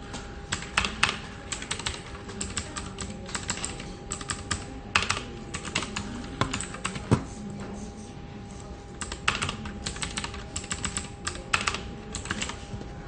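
Typing on a computer keyboard: quick runs of keystrokes with a pause of about a second and a half midway, then typing again. A steady faint hum sits underneath.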